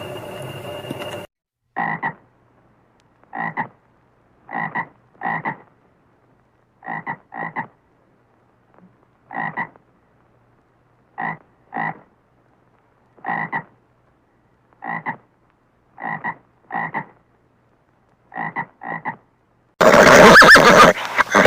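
A frog croaking: short croaks, single or in quick pairs, about once a second with silence between. A steady sound cuts off about a second in, and a loud burst begins near the end.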